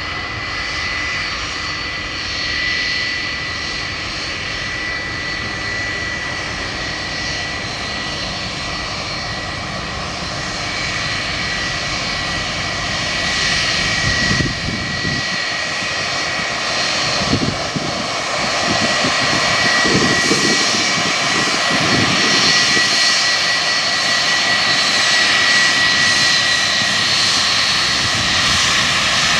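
Jet airliner's engines on a landing, a steady rushing noise with a high steady whine from the fans, growing louder in the second half.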